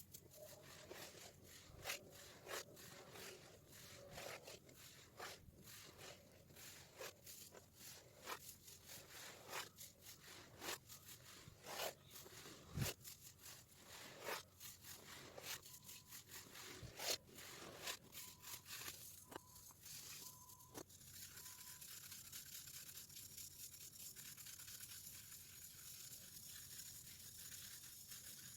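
Compacted baking soda being crushed: irregular sharp crunches and cracks, then from about two-thirds of the way through a steady fine crumbling hiss of powder being ground.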